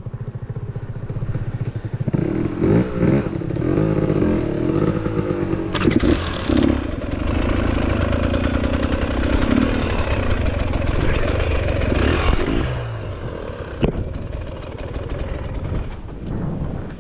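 Enduro dirt bike engine running and revving under load, its pitch climbing and falling. It is loudest from about six seconds in and eases off after about twelve seconds.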